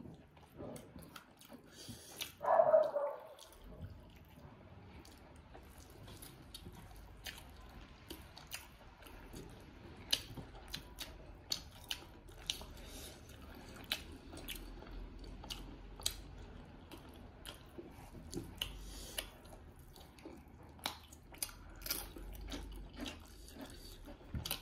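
Close-up eating sounds: people chewing and smacking their lips while eating chicken curry and chicken legs with their hands, with many small wet clicks. A single dog bark, the loudest sound, comes about two and a half seconds in.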